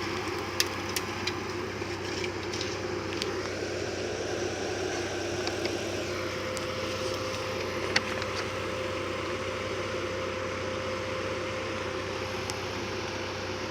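Off-road vehicle's engine idling steadily, with a few scattered sharp clicks.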